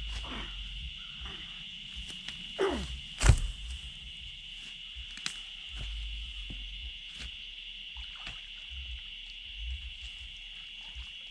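A steady high drone of insects throughout. About two and a half seconds in comes a short falling creak, then one loud sharp crack, the wood of the rotten beaver dam giving way as it is pulled; a few lighter knocks follow.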